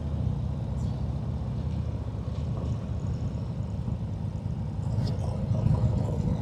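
Harley-Davidson Milwaukee-Eight V-twin engine running steadily at low road speed, a low even rumble.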